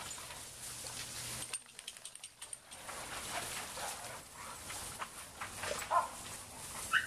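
Dogs playing in a pool: a constant watery splashing hiss, with two short, high yelps from a dog near the end.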